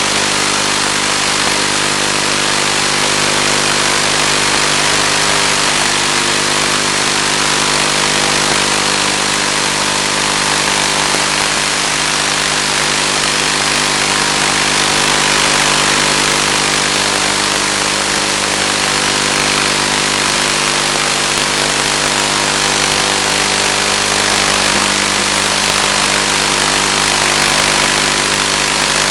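Steady, unchanging hum made of several held tones under a loud even hiss, the sound of the analog FPV video link's audio channel, which carries the model plane's motor drone and radio noise.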